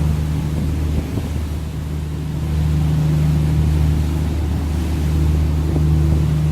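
Seine sightseeing cruise boat's engine running with a steady low hum, with wind on the microphone.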